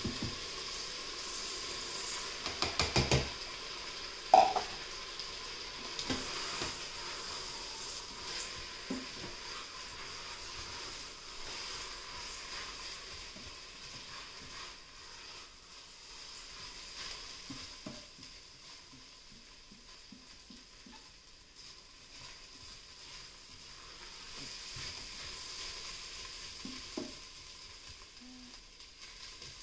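Rice, bacon and peppers sizzling in an Instant Pot's stainless-steel inner pot on sauté, stirred with a silicone spatula that scrapes and clicks against the pot. A quick run of knocks comes about three seconds in and a sharper single knock a second later.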